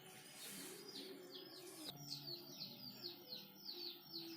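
Faint bird chirping: a fast series of short, falling chirps, about four a second.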